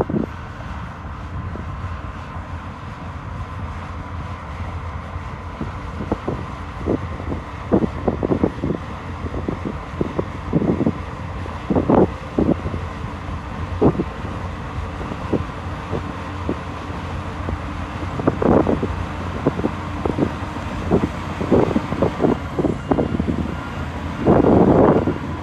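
Bulldozer pushing dirt, its engine running steadily with repeated short clanks and knocks, and wind buffeting the microphone. A louder rush of noise comes about a second before the end.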